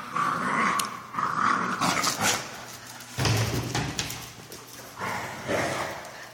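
Dogs growling in rough play, in a series of short growly bursts, with a deeper, louder one about three seconds in.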